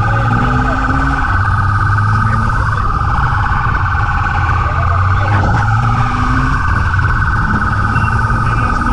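Police car siren sounding continuously with a fast-fluttering two-tone pitch over the steady drone of the car's engine.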